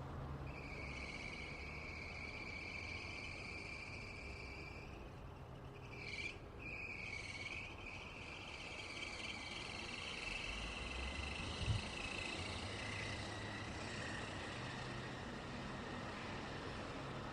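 Road traffic rumbling low and steadily, with a continuous high insect chirr above it that breaks off briefly about six seconds in. There is a short low thump a little before twelve seconds.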